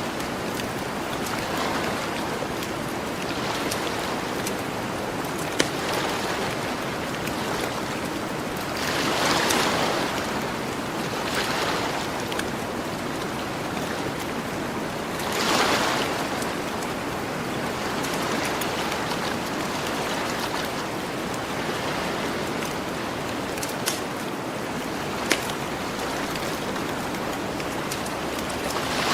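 Ocean waves washing onto a beach over a steady surf hiss, with two waves swelling louder about ten and sixteen seconds in. A campfire crackles, with a few sharp pops.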